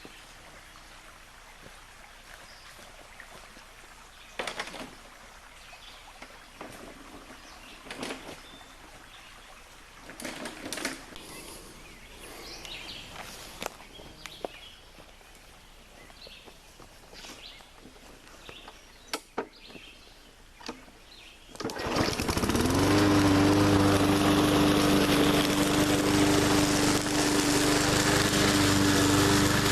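A few scattered clicks and rustles, then about three-quarters of the way in a 20-inch push lawn mower's small engine starts, revs up quickly and runs at a steady speed.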